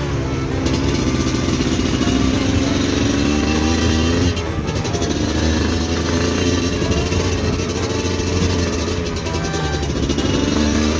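Trail motorcycle engine under load, its revs rising and falling again and again as the throttle is worked.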